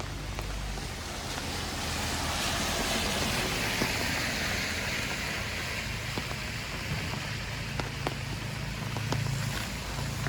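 Wet outdoor ambience after rain: a broad hiss that swells over the first few seconds and then fades, with scattered drip-like ticks.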